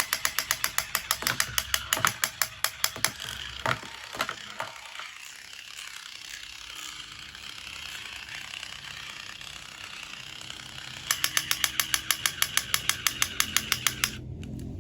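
Rapid, regular mechanical clicking, about six or seven clicks a second, that stops for a while in the middle and resumes near the end before cutting off suddenly.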